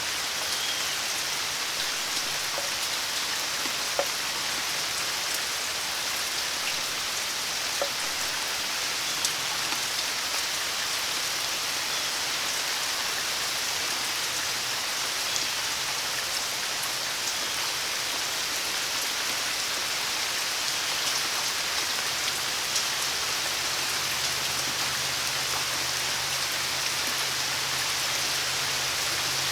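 Steady rain falling and pattering on surfaces, with a few sharper drops tapping close by. A faint low hum joins in about two-thirds of the way through.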